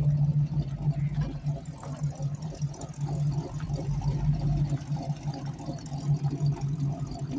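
Engine idling, a steady low drone that pulses evenly throughout.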